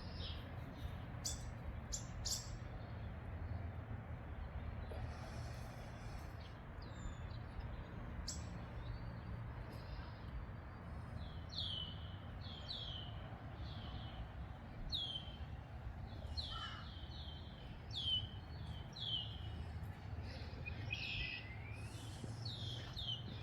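Backyard songbirds chirping: a run of short, downward-sliding chirps, roughly one a second, through the middle and later part, with a few sharp clicks near the start. A low, steady rumble runs beneath.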